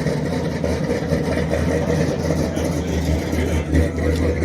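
Chevrolet S-10 pickup's engine running with a deep, steady rumble as it drives off, swelling briefly a little before the end.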